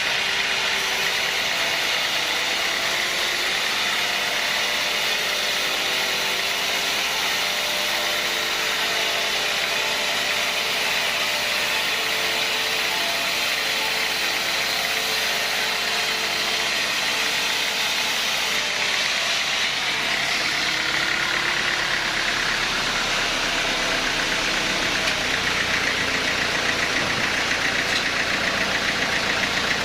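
Sawmill machinery running steadily, a continuous mechanical drone with a strong high hiss; its tone shifts slightly about twenty seconds in.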